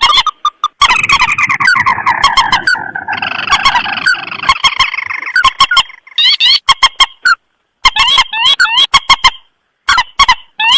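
Looped bird-lure recording of rice-field rail and crake calls (mandar and tikusan): loud runs of fast, repeated chirping notes, broken by sharp clicks and brief abrupt silences where the recording is spliced.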